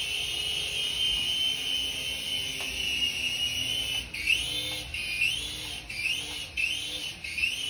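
Small electric motors and rotor of a toy RC helicopter in flight, giving a steady high whine. From about halfway through, the whine dips and rises back five times as the throttle is eased off and pushed up again.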